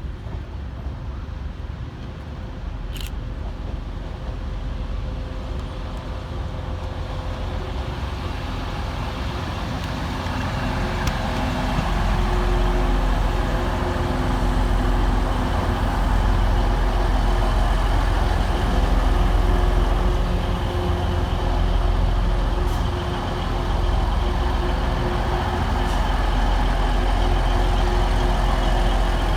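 Pair of coupled Class 185 diesel multiple units arriving, their diesel engines growing louder over the first ten seconds or so and then running steadily with a low rumble and a steady hum.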